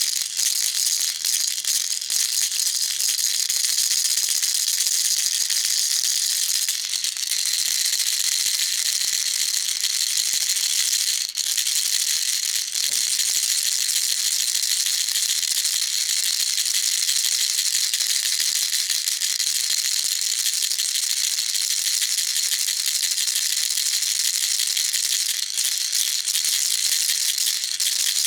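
Baby rattle shaken continuously, a dense, steady, hissy rattling with one momentary break about eleven seconds in.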